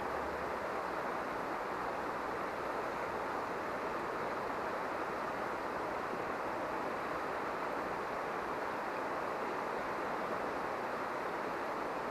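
Mountain stream water rushing steadily over rocks, an even hiss-like roar that does not change.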